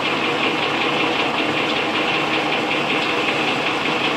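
A sawmill's engine running steadily at an even speed.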